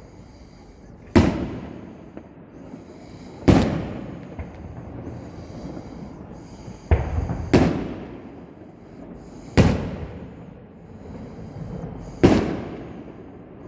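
Fireworks going off: six sharp bangs a couple of seconds apart, two of them close together near the middle, each trailing off in an echo.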